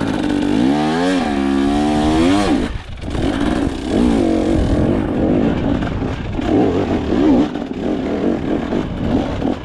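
Dirt bike engine revving hard over rough off-road ground: the revs climb in the first second, hold, dip sharply about three seconds in, then rise and fall again and again as the throttle works.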